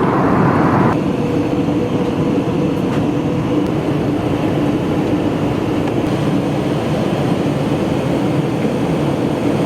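Steady in-flight cabin noise of an airliner, the constant rush of engines and airflow heard from a passenger seat.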